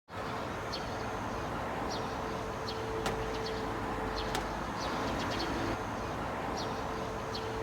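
Outdoor ambience: small birds chirping over and over above a steady low rumble, with a long, even low tone that comes in twice and a few sharp ticks.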